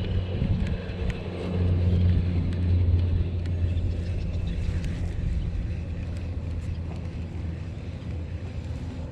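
Motorboat engine running with a steady low hum, growing louder about two seconds in and then slowly easing off, with a few faint clicks over it.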